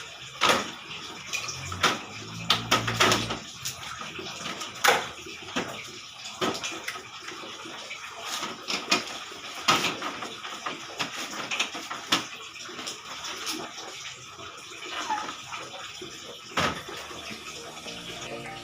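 Water running and splashing while air-conditioner parts are washed down, with irregular knocks and clatter throughout.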